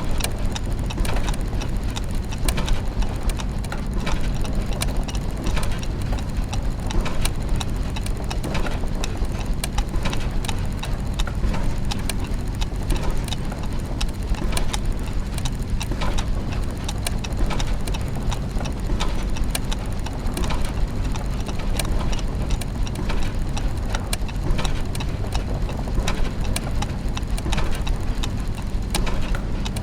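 Clockwork and gear mechanisms: dense, irregular ticking and clicking over a steady low mechanical hum.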